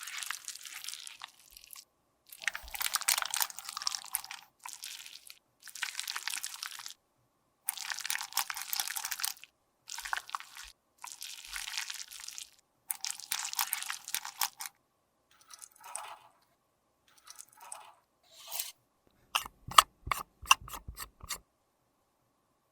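Makeup being worked with a tool: repeated crunching scrapes, each about a second long, then a quick run of sharp taps near the end.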